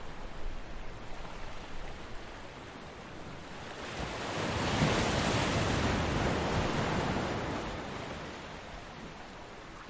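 Ocean surf on a beach: a wave breaks and swells to its loudest about five seconds in, then washes out and fades over the next few seconds.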